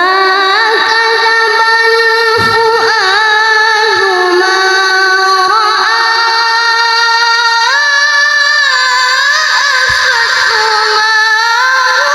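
A child's voice reciting the Quran in melodic tilawah, one long unbroken phrase held with quick ornamental turns, stepping up in pitch about eight seconds in.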